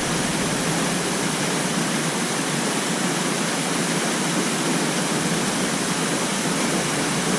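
Steady rush of a small waterfall pouring into a river pool.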